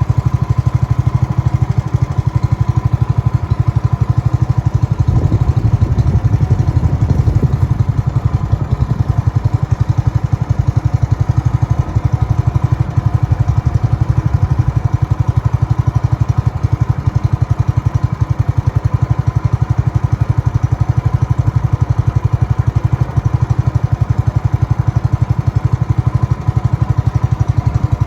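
A small engine running steadily with a rapid, even pulse, a little louder about five to eight seconds in.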